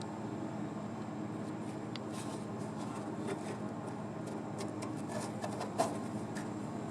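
A steady low hum, with scattered light clicks and taps from about two seconds in and one sharper tap near the end.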